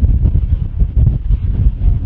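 Wind buffeting the microphone: a loud, gusty low rumble that flutters unevenly.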